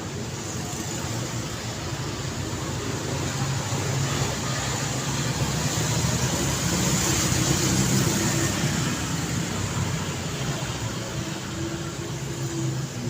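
City road traffic: a steady wash of car tyre and engine noise with a low engine hum, swelling louder around the middle as a vehicle passes close, then easing off.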